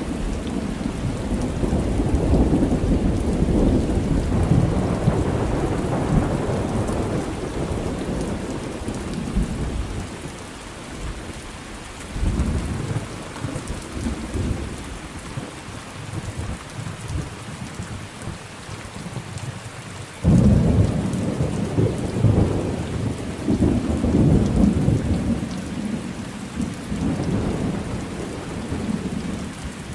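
Thunderstorm with steady rain and rolling thunder. A long low rumble dies away about ten seconds in and a softer one follows. About twenty seconds in, a sudden loud thunderclap rolls on for several seconds.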